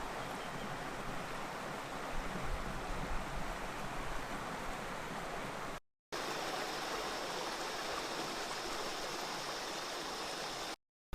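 Steady rush of falling water from a waterfall or stream, heard in two separate takes with a brief cut about six seconds in. The second take carries a faint high steady tone over the water.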